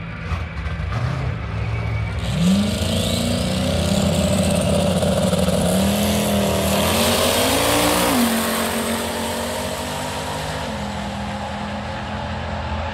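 Drag-racing car's engine revving at the starting line, then launching down the strip. Its pitch climbs and drops sharply at a gear change about eight seconds in, then falls away as the car pulls into the distance. A faint high whine rises with the revs early on.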